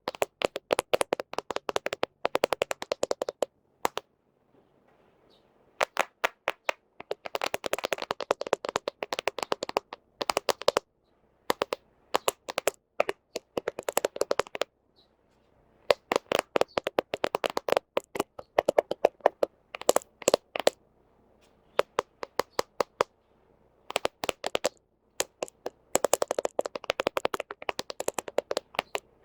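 Fingernails tapping and scratching on a smartphone camera lens: rapid, sharp clicks close to the microphone, in bursts of a few seconds broken by short pauses.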